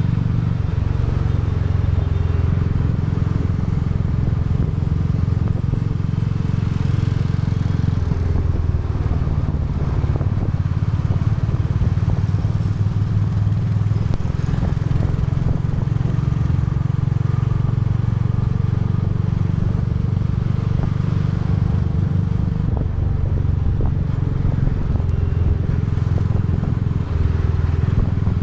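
Royal Enfield Bullet 350's single-cylinder engine and exhaust running steadily on the move. The engine note shifts a little a couple of times.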